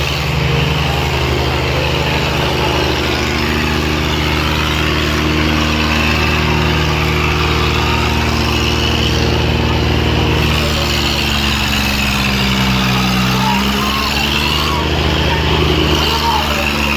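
Diesel tractor engines running hard and steadily, the engine note dipping in pitch and then recovering about twelve to fourteen seconds in.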